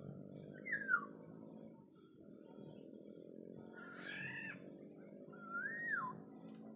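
Black-naped oriole giving fluty whistled calls three times: a quick falling whistle about a second in, then two longer rising-and-falling whistles in the second half. A steady low hum runs underneath.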